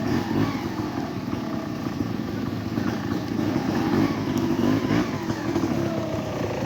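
Trials motorcycle engine running at low revs, the pitch rising and falling in short blips of throttle as it is ridden through an obstacle section.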